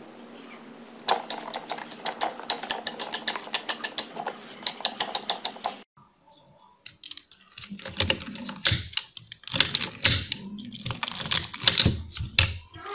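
Slime being handled close up: rapid small clicks and pops from about a second in, then after a brief break a run of wet squishing presses roughly once a second.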